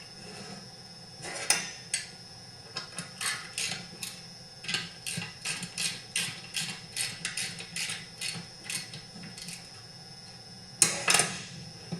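Hand tools and metal chainsaw parts clicking and clinking during bench assembly: a run of small clicks through the middle and a few louder knocks near the end.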